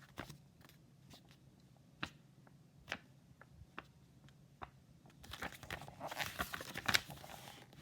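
Paper handling: a few faint, separate clicks, then a longer crinkly rustle in the last couple of seconds, like a book page being turned.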